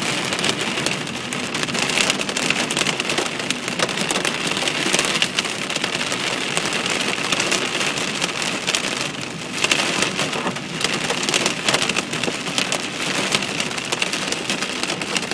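Hailstones pelting down in a hail storm: a dense, steady clatter of countless small impacts mixed with the hiss of heavy precipitation.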